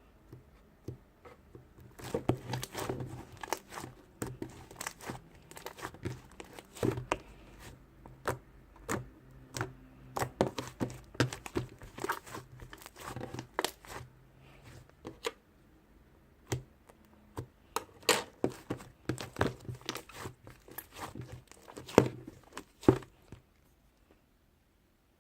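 Irregular crinkling and tearing handling noise, a rapid run of sharp crackles that pauses briefly in the middle and stops about 23 seconds in.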